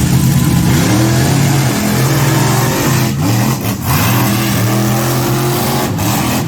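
Monster truck engine revving hard, its pitch rising and falling several times in quick succession.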